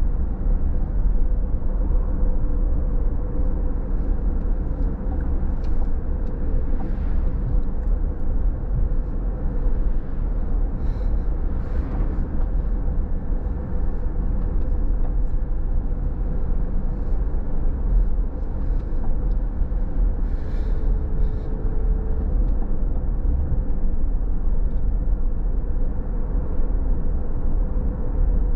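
Steady road noise of a car driving on a wet road at speed: a continuous low rumble with tyre hiss and a faint steady hum, and a few faint brief swells.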